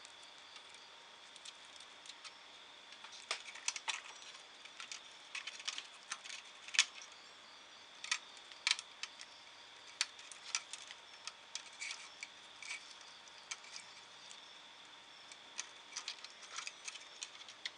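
Scattered, irregular small clicks and taps of hands handling wires and connectors on a CRT TV chassis, over a faint steady high-pitched tone.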